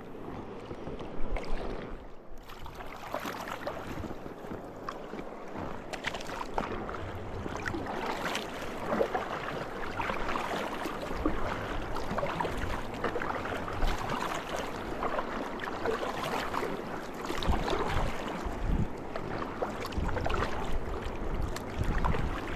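River water rushing and splashing around an inflatable raft, growing louder over the stretch, with low rumbles of wind on the microphone.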